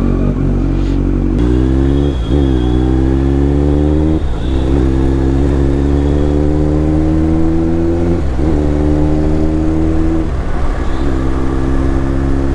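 Sport motorcycle's engine pulling under acceleration, its pitch climbing and then dropping sharply at each of about four gear changes, roughly two, four, eight and ten seconds in.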